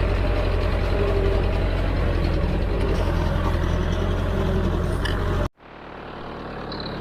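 Heavy diesel machinery engine running steadily, with a strong low rumble. It cuts off abruptly about five and a half seconds in, and a quieter engine sound then rises slowly.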